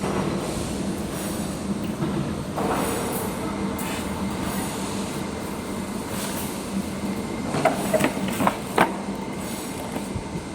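Steady industrial machinery noise with a constant low hum, from work on a solar cell sintering furnace's metal mesh belt. A few short, sharp metallic squeals and clanks come about eight seconds in.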